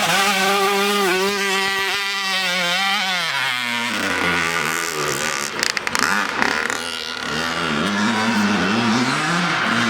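Dirt bike engine running under throttle: its pitch holds steady for about three seconds, drops, then rises and falls as the revs change.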